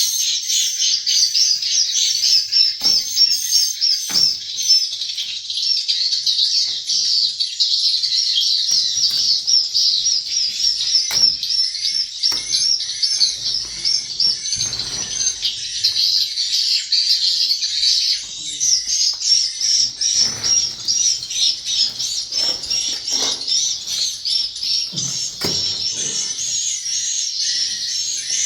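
Swiftlets twittering: a dense, unbroken stream of high-pitched chirps repeating several times a second, with a few faint knocks scattered through it.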